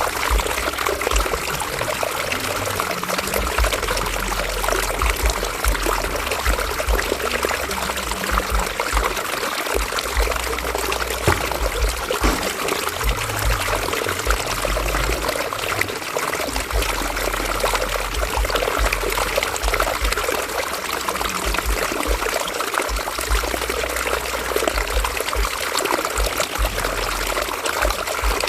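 River water flowing and splashing over rocks, a steady babbling and trickling, with an intermittent low rumble underneath.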